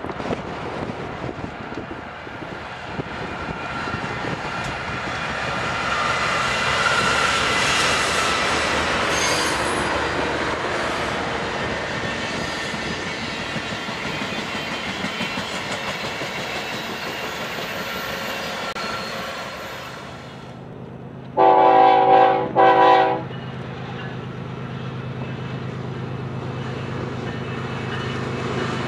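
Train of passenger cars rolling past on the rails, the noise swelling to its loudest about seven seconds in and then easing off. After a cut, a GE ES44DC diesel locomotive approaches with a steady low engine hum and sounds its multi-tone horn, one long blast and one short, a little over a second apart.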